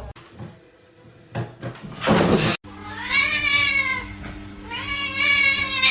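A cat meowing: two long, drawn-out calls of about a second each, after a brief burst of noise about two seconds in.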